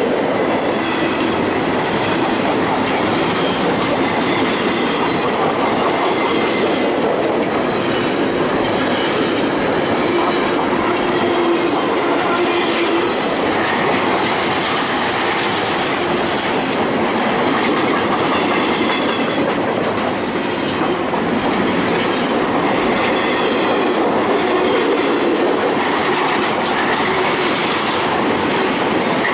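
Freight train of double-stack container well cars rolling steadily past at close range: a continuous loud rumble and clatter of wheels on rail, with faint high wheel squeals coming and going.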